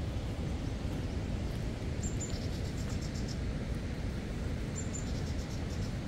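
Steady low outdoor rumble, with a bird singing twice: each time a short high note followed by a quick run of chirps, about two seconds in and again near five seconds.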